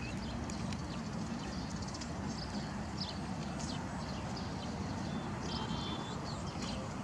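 Outdoor ambience: a steady low background noise with frequent short, high chirps of small birds, including a brief run of quick repeated notes about six seconds in.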